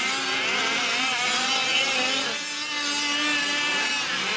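Several 1/5-scale off-road RC trucks' small two-stroke engines racing, overlapping, their pitches rising and falling as they rev up and down.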